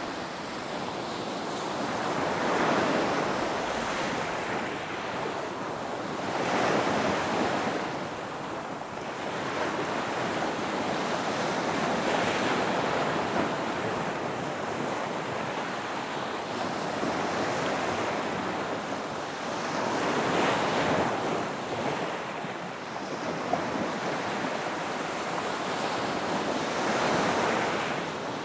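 Ocean waves breaking on a beach and washing back, one after another: the surf swells about every five or six seconds, with continuous hiss between.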